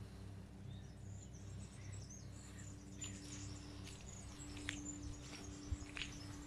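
Faint birds chirping, with short high notes scattered through and a few sharper calls near the end, over a steady low hum.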